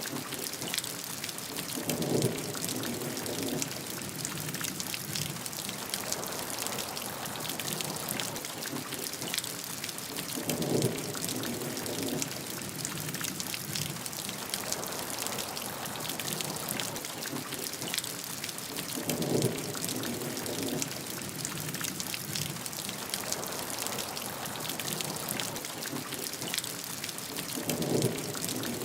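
Steady heavy rain, an even hiss filled with a dense patter of individual drops. A short, lower-pitched splashing sound comes back four times at even spacing, about every eight and a half seconds, as in a looped recording.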